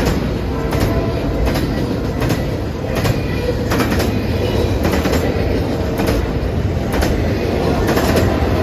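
Freight train rolling past, a steady rumble with the wheels clacking over rail joints a little more than once a second.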